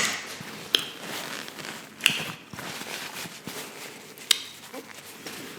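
Close-miked chewing and wet mouth sounds of someone eating buttery lobster tail, with a few sharp clicks, about three in all, over a faint crackle.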